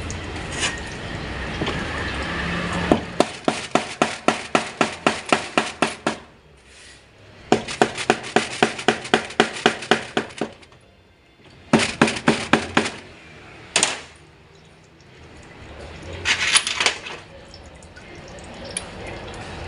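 Ratchet wrench clicking in three quick even runs of about five clicks a second, working bolts on an automatic transmission, then one lone click and a short cluster of metal clinks near the end.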